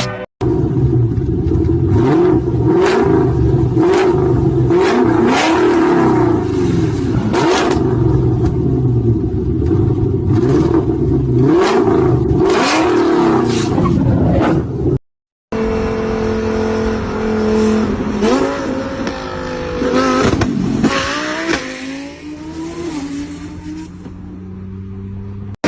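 Car engine held on a two-step launch-control rev limiter, with repeated sharp bangs and crackles from the exhaust; after a brief cut, another engine revving up and down.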